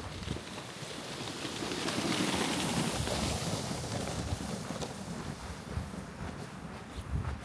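A gust of wind through the snowy forest, an even rushing that swells up over a couple of seconds and slowly dies away. Footsteps crunch in snow near the start and again near the end.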